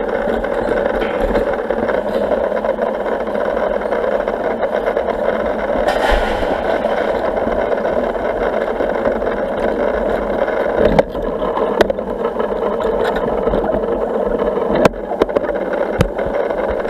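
Steady running and water-flow noise of an Intex pool cleaner working on the pool bottom, driven by the filter pump. A few short sharp knocks come in the second half.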